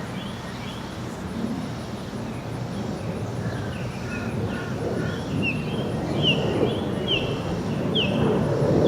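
Low, steady rumble of a departing jet airliner, building a little louder toward the end. Over it a bird chirps repeatedly from about halfway on.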